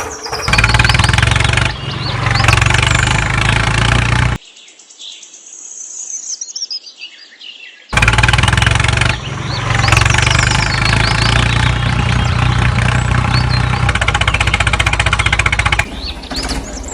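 A small engine running, cutting off abruptly about four seconds in and coming back abruptly about eight seconds in; birds chirp in the quieter gap.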